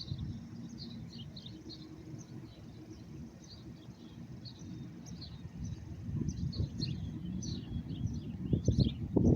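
Small birds chirping repeatedly in short calls over low rumbling outdoor noise, with a few soft thumps near the end.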